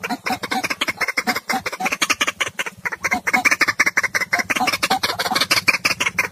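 White-breasted waterhen (ruak-ruak) calling: a rapid run of harsh, croaking calls repeated several times a second, the bird's lure call.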